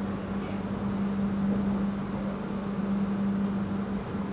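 Passenger train in motion: a steady rumble with a constant low hum running under it.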